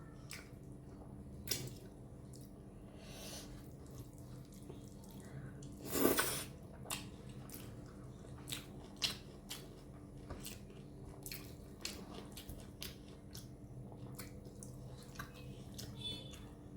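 Close-miked, wet chewing and mouth sounds of a person eating chicken curry and rice: many short smacking clicks, with one louder, longer sound about six seconds in.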